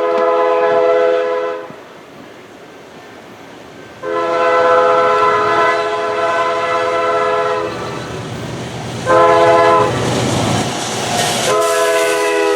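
Diesel locomotive's multi-chime air horn sounding the grade-crossing signal: long, long, short, long. A rumbling train-passing noise rises between the short blast and the last long one.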